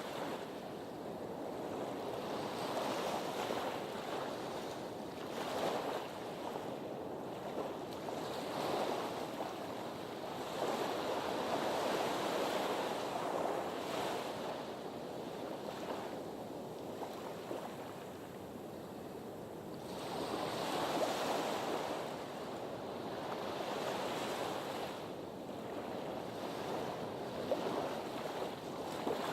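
Sea surf washing against a harbour breakwater: a continuous wash that swells and eases every few seconds.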